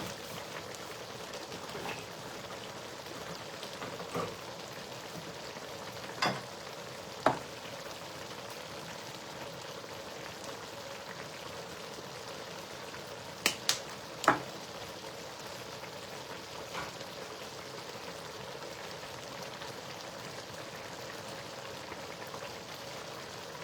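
A pot of spinach stew cooking on the stove with a steady low sizzle. A few short sharp clinks cut in, two near a quarter of the way in and a quick cluster of three just past the middle.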